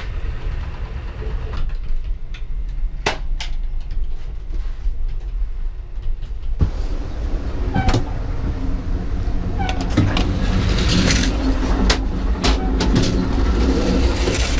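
Running noise of a moving passenger train heard from inside: a steady low rumble with scattered knocks and rattles. It grows louder in the second half, with more hiss, by the end-door between cars.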